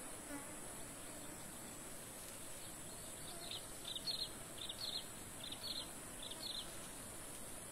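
Outdoor nature ambience: a steady high hiss like insects, and from about three seconds in, a run of short, high, quickly falling chirps, mostly in pairs, roughly every half second to second, from a small bird.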